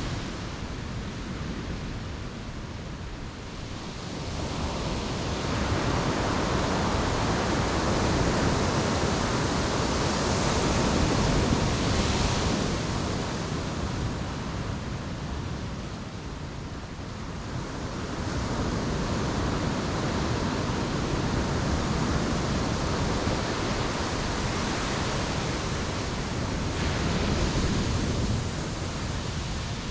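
Ocean surf: waves breaking and washing up the beach as a continuous rush that swells and falls back every several seconds, loudest about twelve seconds in.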